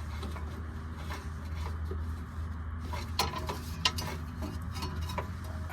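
Light metallic clinks and scrapes of a high-pressure power steering hose and its fittings being worked out of the engine bay, with two sharper knocks about three and four seconds in, over a steady low hum.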